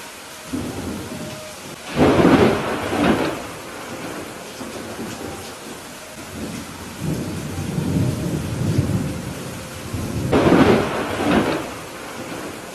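Thunderstorm: steady rain with thunder, two loud peals about two seconds in and again near the end, and softer low rumbling between them.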